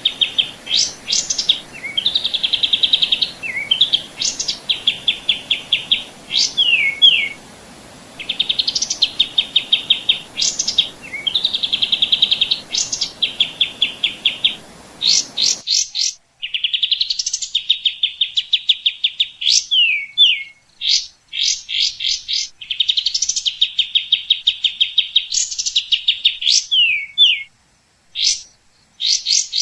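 A songbird singing the same phrase over and over: a fast, even trill followed by a few sharp downslurred notes, repeating every few seconds. A faint background hiss under the song cuts off suddenly about halfway through.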